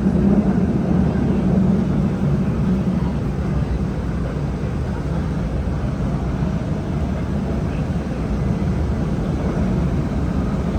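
Steady low rumble and hiss of a vehicle in motion, even throughout with no distinct knocks or changes.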